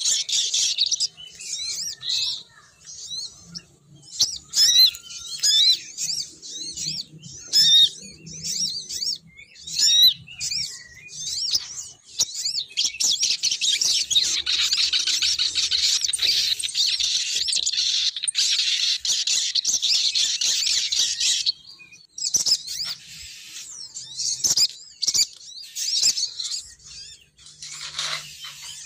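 Female sogon bird calls played as a lure: quick high-pitched chirps, with a dense unbroken run of chirping in the middle.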